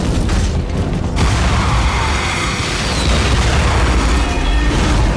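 Explosion: a loud blast rumbling on in a long, low rolling boom, with a fresh surge about a second in.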